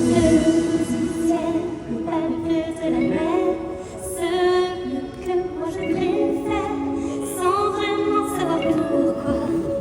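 Stage show music with a woman singing over sustained backing chords, her voice wavering with vibrato on held notes.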